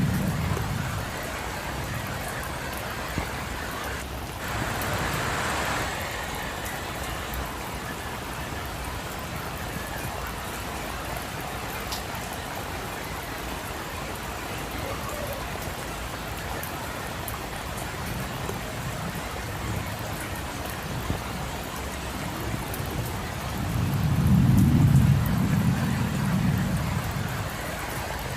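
Steady rain falling, an even hiss throughout. Low thunder rumbles as it fades in the first second, and again as it swells and dies away near the end. A brief swell of louder hiss comes about four seconds in.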